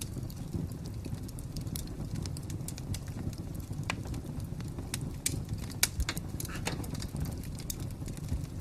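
Fire crackling: irregular sharp pops and snaps over a low steady rumble, with a cluster of louder pops in the middle.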